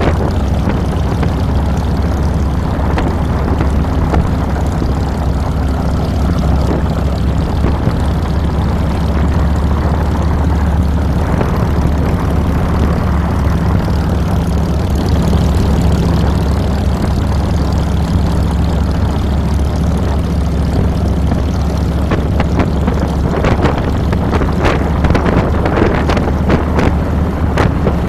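Harley-Davidson Fat Boy's air-cooled Twin Cam 96 V-twin running at a steady engine speed, heard close up from the handlebars. Wind noise on the microphone builds near the end.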